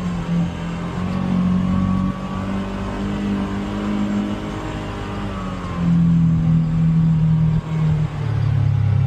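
Polaris Xpedition UTV engine running under varying throttle on a trail, its pitch shifting as it is revved. It gets louder about six seconds in, dips briefly, then picks up again.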